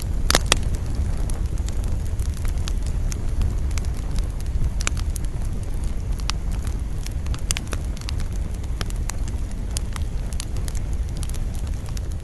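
Campfire burning, the wood crackling with scattered sharp pops over a steady low rumble of wind. One loud pop comes about half a second in.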